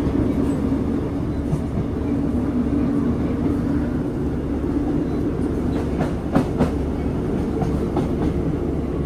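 Diesel train running on the Looe Valley branch line, heard from inside the carriage: a steady low drone of engine and wheels, with a few clacks from the wheels about six seconds in.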